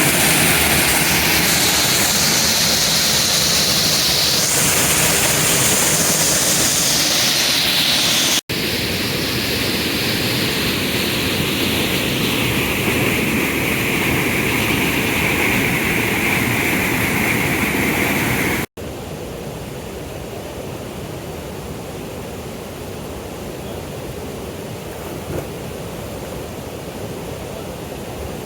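Waterfall rushing: a steady noise of falling water in three takes, which cut off abruptly about eight and a half and eighteen and a half seconds in. The last take is quieter.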